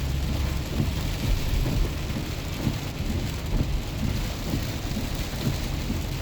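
Heavy rain hitting a moving truck, many small drop ticks over a steady hiss, with a steady low road rumble underneath.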